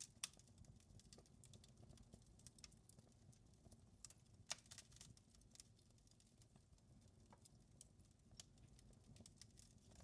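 Wood fire crackling faintly, with irregular sharp pops and snaps, two louder ones just after the start and about four and a half seconds in, over a low steady rumble.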